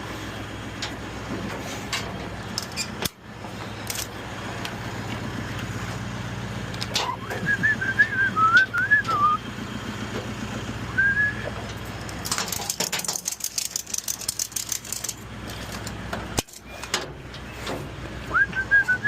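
A vehicle engine running steadily, with a short wavering whistled tune over it several times. Partway through, a hiss lasts a couple of seconds.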